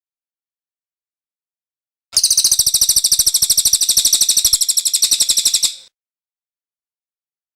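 Cililin song: a fast, even trill of about a dozen high, sharp notes a second, lasting nearly four seconds. It starts and stops abruptly about two seconds in, between stretches of dead silence, as in an edited, looped masteran recording.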